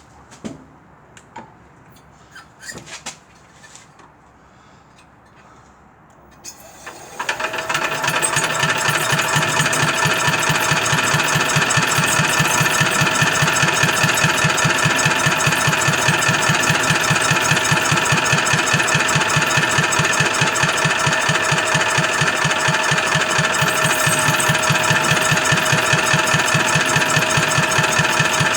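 A few light knocks of handling, then about seven seconds in a Petter diesel engine is spun over by a mechanical aid and keeps turning steadily with a fast, even pulse and a steady whine, without firing: its fuel pump is delivering no fuel.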